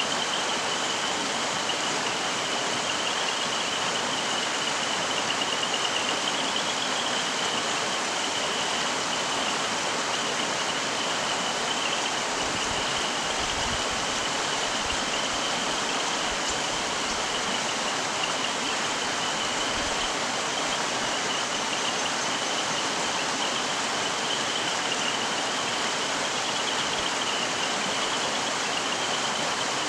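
Mountain stream running steadily over rocks, an even rushing of water, with a steady high-pitched whine running through it and a few faint low rumbles midway.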